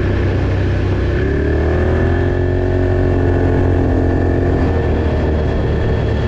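Off-road vehicle engine running with a steady low drone; about a second in its pitch climbs as it accelerates, holds, then eases off a little past the middle.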